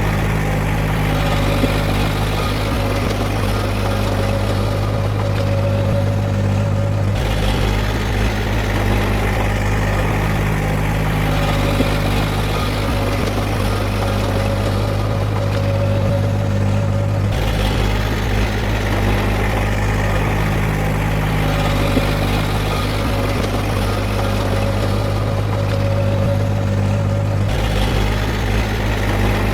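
Heavy diesel engine of earthmoving machinery running steadily. Its note shifts in a repeating cycle about every ten seconds.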